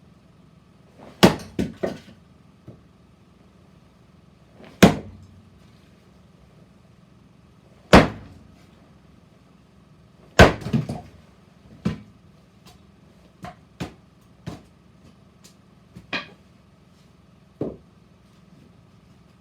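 Firewood being split: about a dozen sharp strikes of a splitting blade on wood at irregular intervals, some coming in quick pairs or threes, the heaviest blows in the first half.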